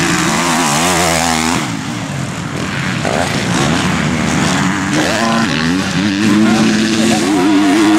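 Motocross bike engines revving hard through corners and accelerating away. The pitch keeps rising and falling with the throttle, with a sharp rising rev about five seconds in, and the sound changes abruptly at the cuts between shots.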